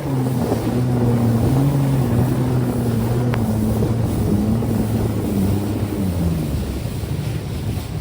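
Jet ski engine running, its pitch wavering up and down, then falling away about three quarters of the way through.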